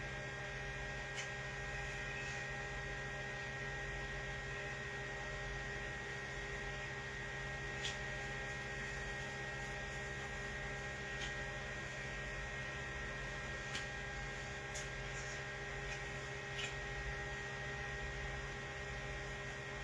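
Steady electrical mains hum, with a few faint, scattered ticks.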